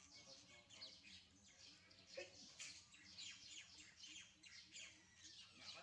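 Faint birds chirping: a dense run of quick, high, down-slurred chirps overlapping one another.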